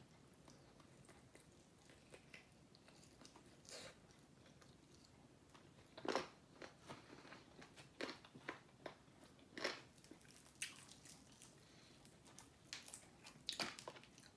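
Close-up chewing and biting of crisp-skinned deep-fried whole chicken: quiet, scattered crunches, louder and more frequent from about six seconds in.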